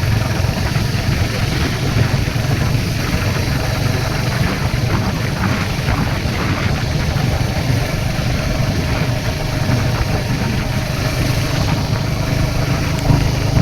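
Royal Enfield Hunter 350's single-cylinder engine running steadily, under a constant rush of wind and road noise.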